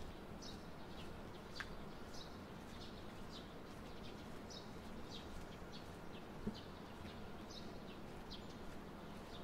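A small bird chirping over and over, short high chirps about one or two a second, over a faint steady low city hum. A single soft thump comes about two-thirds of the way through.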